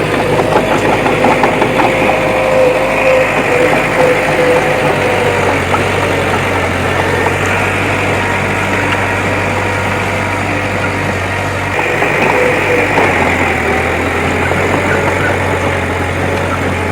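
Diesel engine of heavy earthmoving machinery running steadily, with a wavering whine over it in the first few seconds and again about twelve seconds in.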